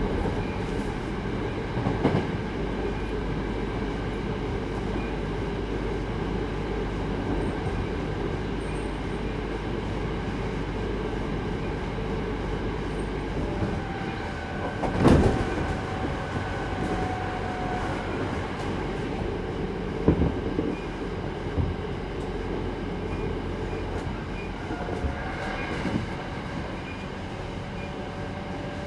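Hankyu 8200 series electric train heard from inside the car, running between stations: a steady rumble of wheels on rail. A few sharp knocks come through, the loudest about halfway through.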